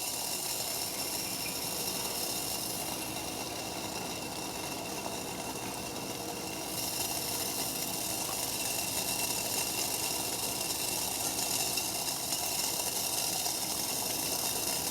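Homemade stainless steel wood-gas pellet stove burning steadily, its flame giving a hissing rush as gas burns out of the upper holes, with a pot of water boiling on top. The hiss gets louder about seven seconds in.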